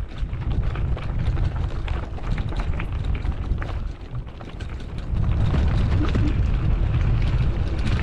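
Wind buffeting the microphone on a moving mountain bike, with a scatter of small clicks and rattles from the bike over rough ground. The wind eases about a second in and picks up again about five seconds in.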